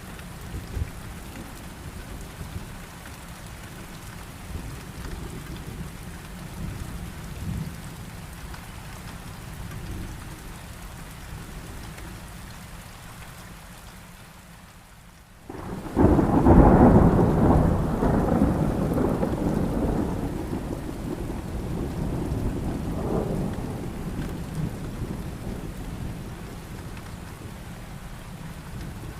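Steady heavy rain with low thunder rumbling. About halfway through, the sound dips away for a moment, then a loud crack of thunder breaks in and rolls away over about ten seconds.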